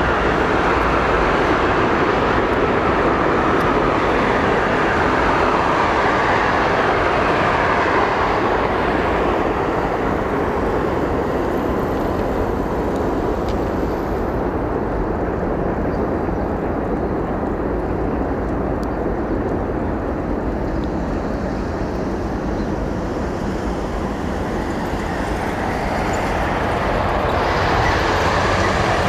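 Jet airliner engine noise running steadily, with a faint whine gliding in pitch in the first several seconds. It dulls a little about a third of the way in and swells again near the end.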